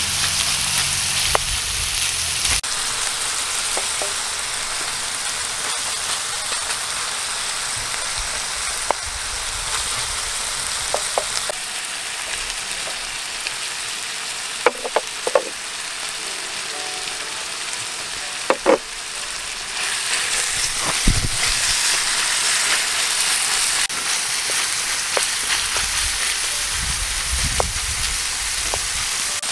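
Chicken breast and chopped vegetables sizzling steadily in a wide steel frying pan as they are stirred, with a few sharp knocks and clicks in the middle.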